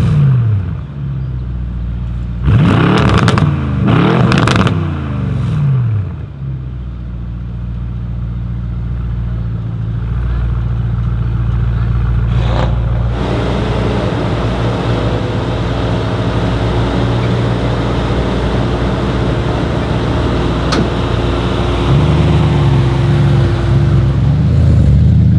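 Mercedes-AMG E63 S twin-turbo V8, tuned to 1000 hp, blipped twice in quick succession, each rev rising and dropping back. It then settles into a steady engine note that grows louder from about halfway, with the pitch wavering near the end.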